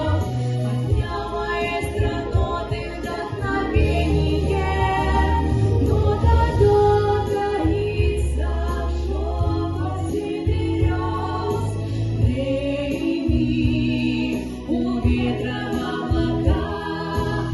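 A song: voices singing over an instrumental backing track with a sustained bass.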